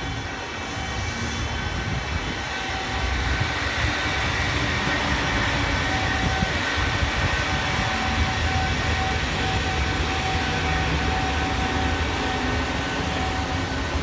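Electric-locomotive-hauled freight train running past, its rumble and wheel-on-rail noise building over the first few seconds and then holding steady, with a steady high whine over it.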